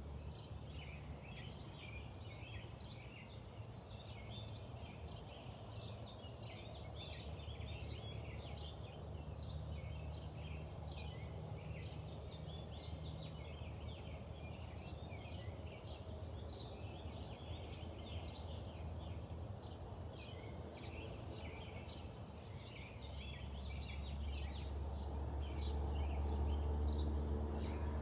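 Many small birds chirping busily and continuously, over a steady low rumble that grows louder near the end.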